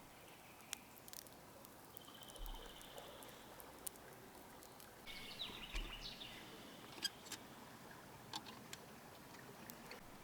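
Faint woodland ambience: a bird calls a few times with short high chirps and trills, among scattered light ticks and crackles.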